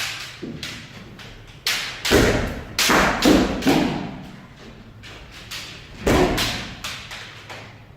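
Kendo sparring: a quick run of sharp impacts, stamping feet on a wooden floor and bamboo shinai striking armour, about two to four seconds in, with a shout in the middle, and another burst of strikes about six seconds in.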